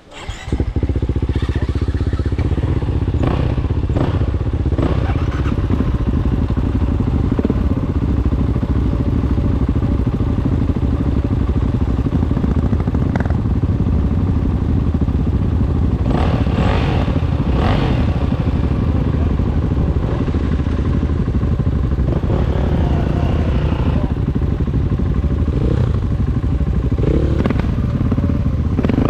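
Dirt bike engine running steadily and loud while riding, with clattering knocks from the bike over rough ground; it comes in abruptly about half a second in.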